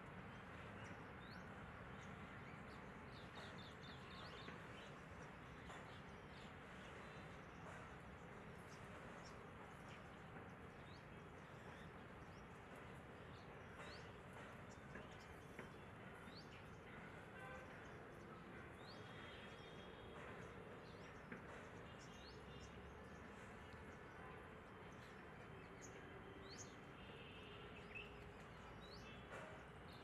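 Faint outdoor background with scattered short, high bird chirps and a few quick runs of chirps, near the threshold of near silence.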